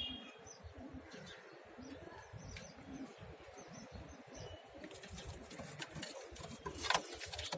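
Pigeons cooing softly in a loft, with a few sharp wing flaps near the end, the loudest about seven seconds in.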